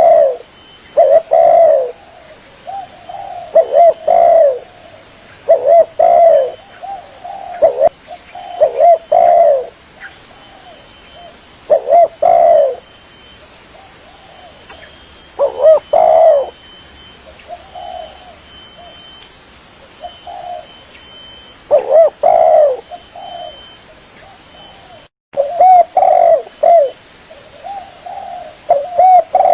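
Spotted dove (tekukur) cooing in repeated phrases, a new phrase about every two seconds. There is a momentary cut-out late on.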